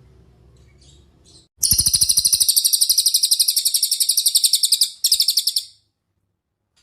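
Cililin bird song: a few faint high notes, then a loud, fast trill of evenly repeated high-pitched notes lasting about four seconds, broken briefly near its end.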